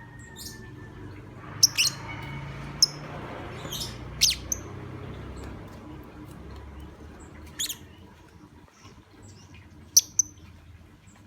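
Lovebird giving short, shrill chirps and squawks at irregular intervals, clustered in the first half and again near the end, over a low steady background noise.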